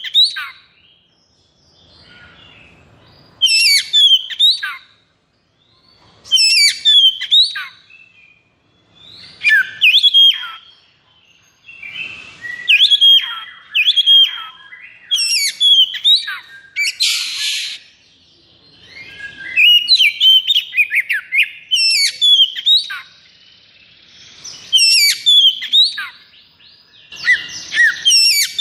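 Oriental magpie-robin (kacer) singing loud phrases of quick whistled, sweeping notes, each about a second long, with short pauses between them. A little past halfway comes a brief harsh, buzzing rattle.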